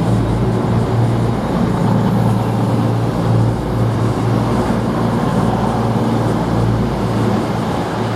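Underfloor diesel engines of a Voyager-family diesel-electric train (Class 221 Super Voyager) running, a loud, steady low rumble with a slight pulsing.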